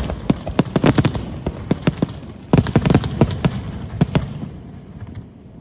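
Fireworks going off: rapid crackling reports and bangs in two dense volleys, the second about halfway through, thinning out near the end.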